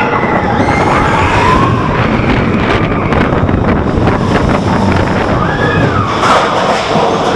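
Wind rushing over the microphone as a mine-train roller coaster runs at speed, with the train rattling and knocking along the track.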